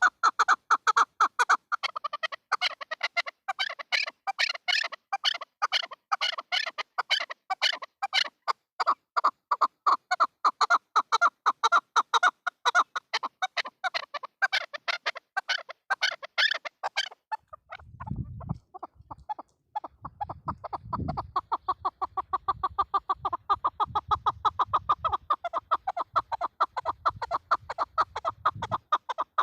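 Chukar partridge calling in a fast, unbroken series of short clucking notes, several a second. A little over halfway through the calls grow thinner and low rumbling thumps join them.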